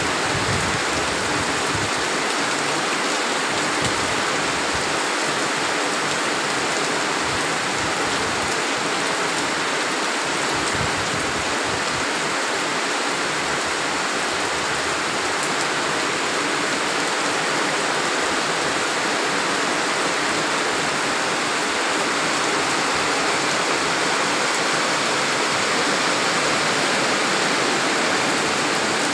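Heavy rain falling, a steady dense hiss that stays even throughout.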